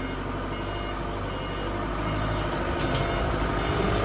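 Steady engine-like rumble, like a motor vehicle running, getting a little louder toward the end.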